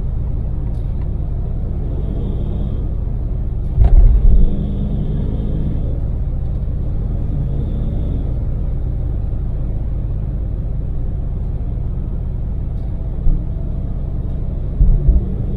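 Steady low in-cab rumble of a Daewoo Damas LPG microvan cruising on an expressway, its small engine mixed with tyre and road noise. Short, loud low thumps come about four seconds in and again near the end.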